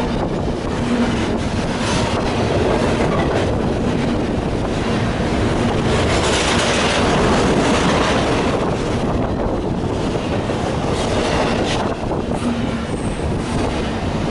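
Double-stack container freight train passing close by at speed: a continuous rumble of steel wheels on rail, with a steady run of clicks and clatter as the cars go over the rail joints.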